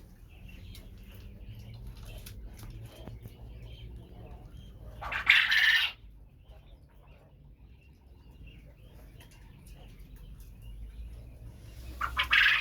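Caged quail making soft scattered chirps, with a loud rustling burst about five seconds in and another near the end.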